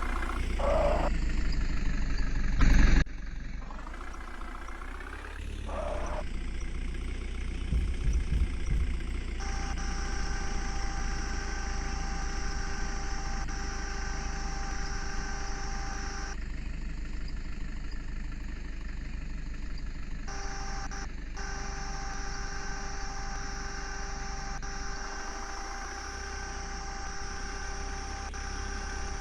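Heavy diesel engine of earth-moving machinery running steadily, with one loud bang about three seconds in. A steady whine comes in from about ten seconds.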